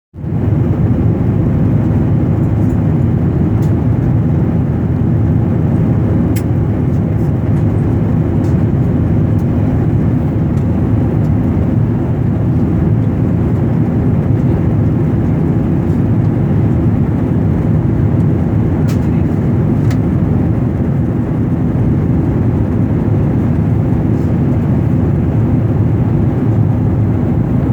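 Airliner cabin noise in flight: a loud, steady low rumble of engines and rushing air, with a few faint ticks.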